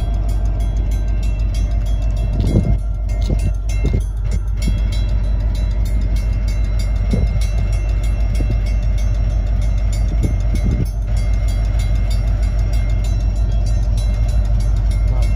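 Union Pacific hopper cars rolling through a grade crossing: a steady low rumble of wheels on rail, a few knocks over the crossing, and a thin steady high-pitched whine.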